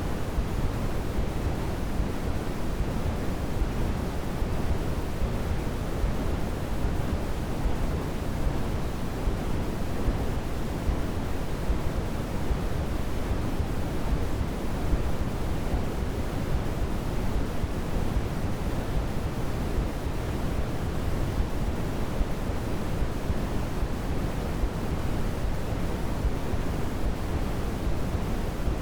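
Steady synthetic noise, heaviest in the low end and thinning toward the treble like pink or brown noise, unchanging throughout: a continuous white-noise sleep track for soothing a baby.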